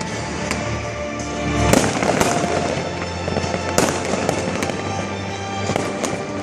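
Fireworks shells bursting in several sharp bangs over music played with the display.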